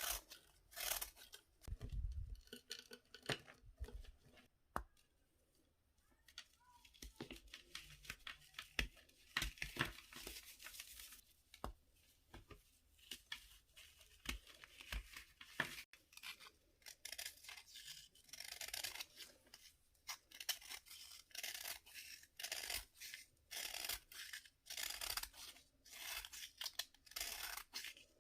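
A pressed-powder bath fizzer being cut and scraped: irregular short, crisp, crumbly strokes one after another, with a quieter pause about five seconds in.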